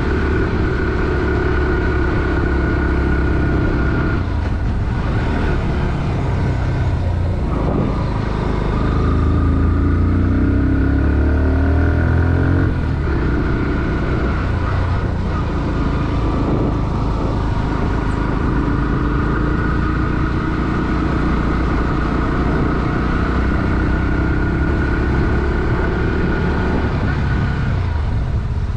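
Bajaj Pulsar NS160's single-cylinder four-stroke engine running under load, its pitch rising and falling as the bike accelerates and changes gear, with a long climb in pitch from about eight to thirteen seconds in.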